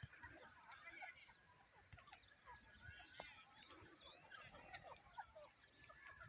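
Faint chirping of several birds: many short, scattered chirps and quick sliding calls overlapping, with no single loud call standing out.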